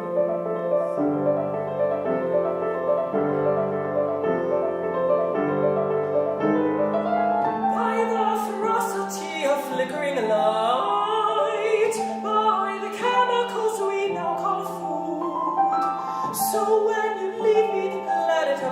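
Piano playing sustained chords. About seven seconds in, a classical counter-tenor joins, singing a wavering line with vibrato over the piano.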